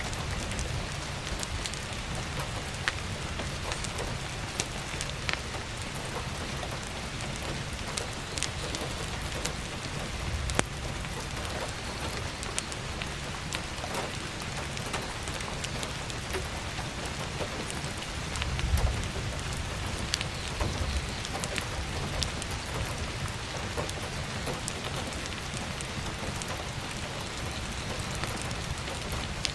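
Heavy rain falling steadily on an attic skylight, with scattered sharp crackles from a wood-stove fire. A brief low rumble swells a little past halfway.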